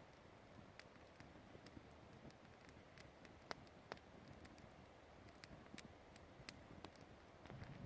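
Wood campfire crackling faintly, with scattered sharp pops and ticks over a soft hiss.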